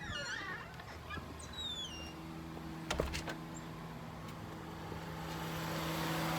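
Chirping bird calls, one a falling whistle, in the first two seconds over a steady low hum. A sharp knock comes about three seconds in, and a rising rush of noise builds near the end.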